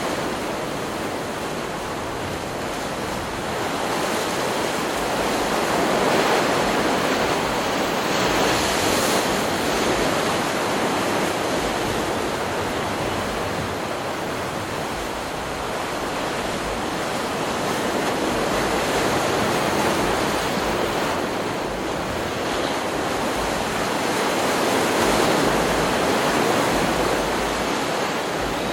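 Ocean surf from a stock beach recording: waves breaking and washing in a continuous rush, swelling louder a few times and easing between.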